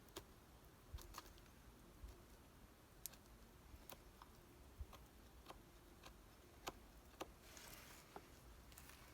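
Faint crackling of a wood campfire: scattered sharp pops and ticks at uneven intervals, with a brief soft hiss near the end.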